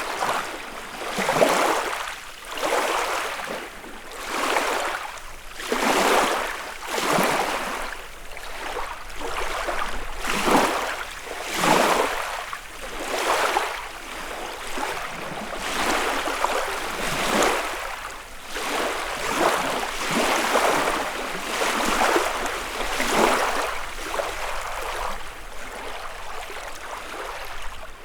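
Small lake waves lapping on the shore, each wave washing in with a short splash, about one every one and a half seconds.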